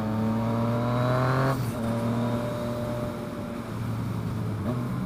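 Motorcycle engine pulling away, its pitch climbing slightly before a gear change about a second and a half in, then running steadily in the next gear.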